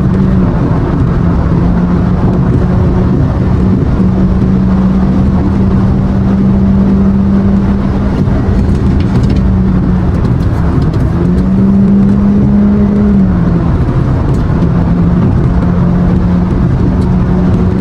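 Motorcycle engine running at steady high revs under heavy wind and road noise. The engine note climbs for a couple of seconds about eleven seconds in, then settles back.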